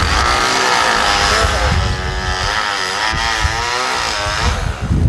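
A motor vehicle engine running over a low rumble, its pitch wavering up and down in the middle of the stretch before fading out.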